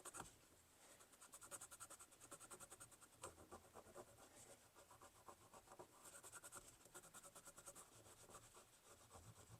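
Faint, rapid scratching at the grime on a tarnished 50p coin, many quick strokes a second in runs with short pauses, to uncover its date.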